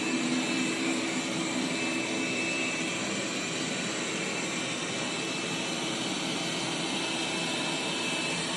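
Robot vacuum cleaner running, a steady whir from its suction fan and brushes.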